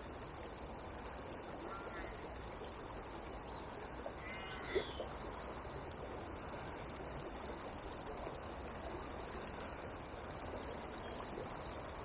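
Quiet steady hiss of a small river flowing, with a bird calling twice: faintly about two seconds in, then more clearly around four seconds in. A single sharp tap follows just after the second call.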